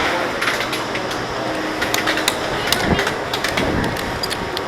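Scattered clicks and clacks of roller coaster restraints and seat belts being fastened and checked in the station, over a steady hubbub.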